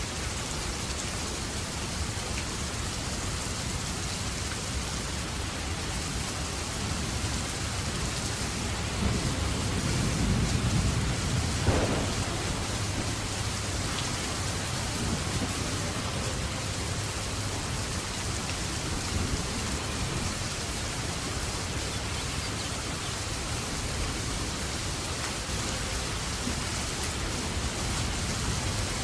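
Steady rain falling, with a low rumble of thunder that swells about nine seconds in and fades after about twelve seconds.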